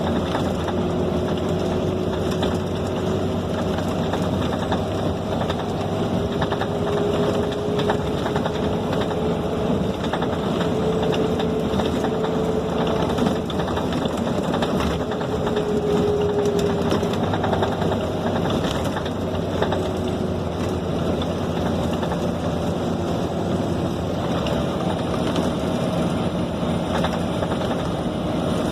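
Ride inside a Scania K270 city bus under way: steady diesel engine and road noise, with a whine that slowly rises and falls in pitch as the bus gains and loses speed.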